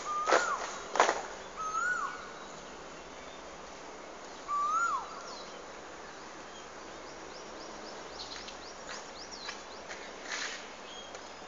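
A bird calling outdoors with a short whistle that rises then falls, repeated a few times, and quick high chirps around eight to ten seconds in. In the first second, a few sharp impacts in a steady beat.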